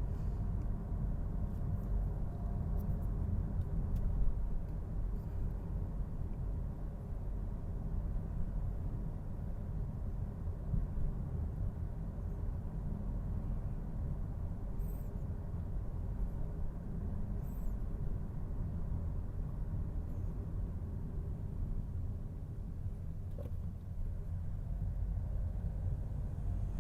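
Steady low rumble of a motor vehicle being driven along a road, engine and road noise together.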